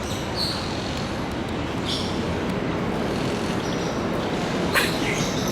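A steady rumbling noise with a few short, high squeaks from a parrot over it, the loudest near the end.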